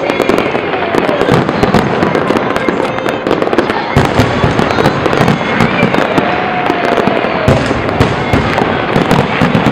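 Fireworks display going off in a dense, continuous run of sharp bangs and crackles.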